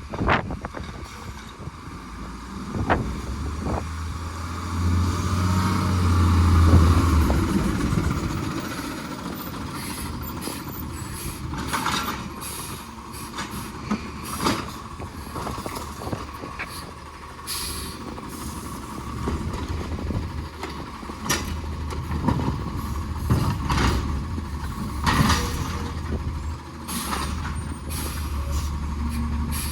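Garbage truck at work: its engine revs up and swells about five to seven seconds in, then keeps running with many short knocks and clanks.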